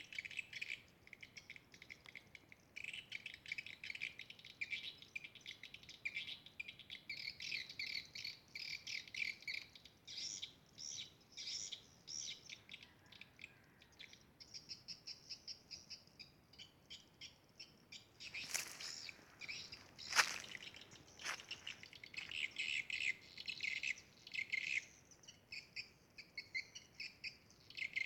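Swiftlets twittering: a dense, continuous stream of rapid high chirps. A few sharp knocks about two-thirds of the way in.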